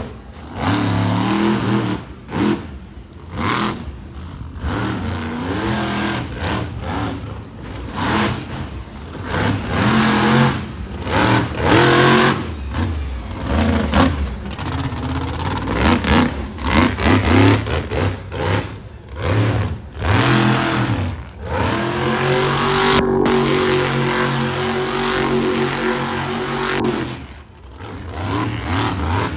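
Monster truck engine revving hard, its pitch climbing and falling again and again with short drops in between, then holding at a steady pitch for several seconds late on.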